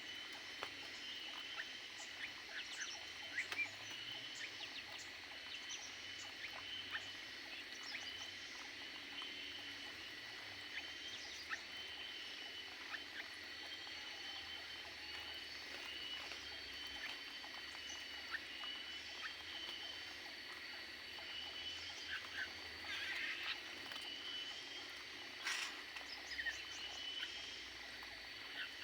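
Small cage birds chirping in many short calls over a steady high-pitched ringing drone, with a busier stretch of calls near the end.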